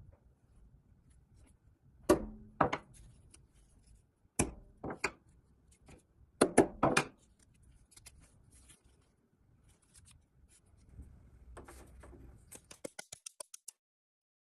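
Several sharp knocks and clicks of hard objects being set down and handled, with light rubbing between them. Near the end comes a quick run of about nine ticks that fade away.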